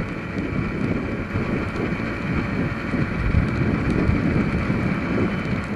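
Wind rushing over the microphone of a moving motorcycle, a steady, heavy, deep rush with the bike's running mixed in.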